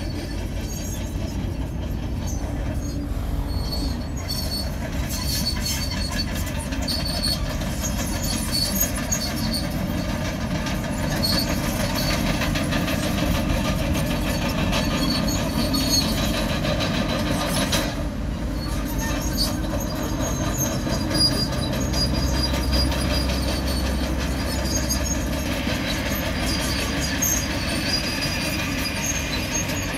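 Komatsu bulldozer at work: its diesel engine running under load with high squealing and clanking from the steel tracks.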